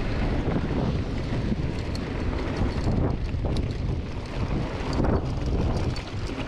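Strong wind buffeting the microphone: a dense low noise that rises and falls with the gusts.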